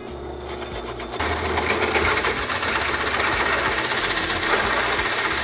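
Drill press boring into wood with a 2½-inch Forstner bit. The cutting noise builds about a second in, then holds steady as the bit grinds slowly through hard wood.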